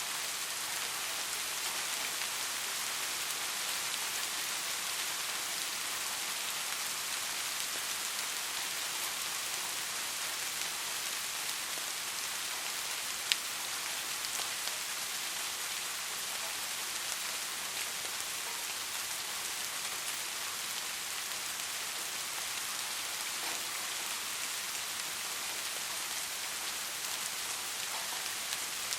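Soft rain falling steadily, an even hiss of many drops. One sharp, louder drop tick stands out about halfway through.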